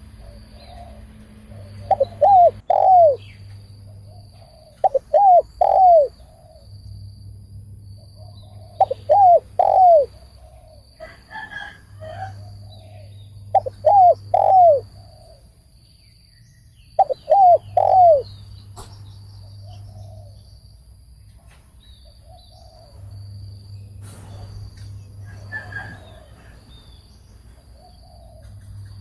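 Spotted dove cooing: a loud three-note coo phrase repeated about every four seconds, five times, then only fainter coos in the second half. A faint, steady high-pitched tone runs behind it.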